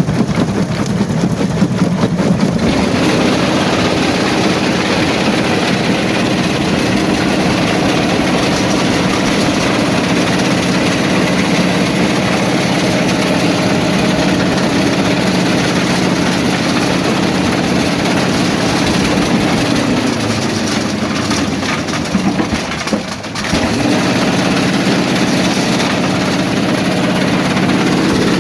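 Quarry rock-crushing plant machinery running with a steady, heavy engine-like hum. About three quarters of the way through, the hum drops in pitch and briefly dips in level, then picks back up.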